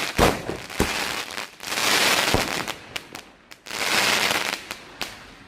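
A 60-shot crackling firework cake firing its last shots: a few sharp bangs, each followed by a long wave of dense crackling, fading out near the end.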